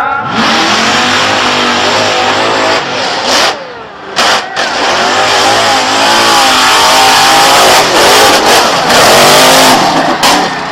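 Bigfoot monster truck's engine revving hard, its pitch rising and falling again and again as it drives over cars. It dips briefly about four seconds in and is loudest in the second half.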